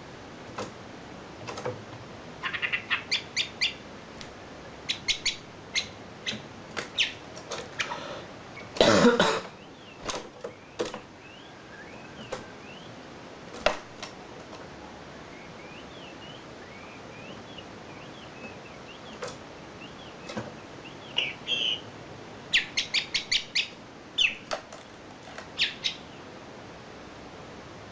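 Wambi songbird singing in quick runs of sharp, clicking chirps, with a few faint sliding notes in between. About nine seconds in, a loud, short noise briefly covers the song.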